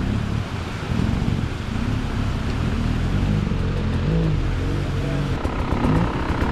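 Dirt bike engine running, its revs rising and falling again and again.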